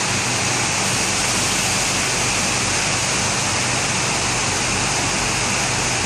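Heavy rain falling steadily, a constant even hiss, with a faint low hum underneath.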